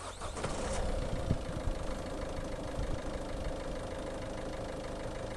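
Citroën C4 HDi diesel engine starting: a brief crank in the first second, then it catches and settles into a steady idle.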